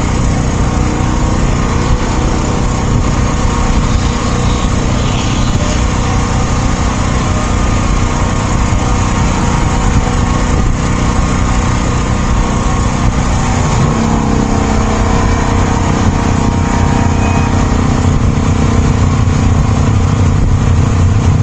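Motor vehicle engine running steadily under way, with road noise; the engine note shifts about two-thirds of the way through.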